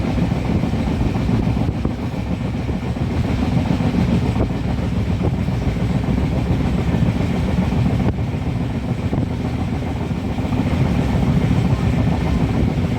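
Moving passenger train running steadily, a continuous low rumble with no distinct wheel-click rhythm.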